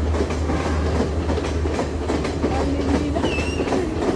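A train running along the track: its wheels clatter over the rail joints over a steady low rumble, with a few brief high-pitched tones about three seconds in.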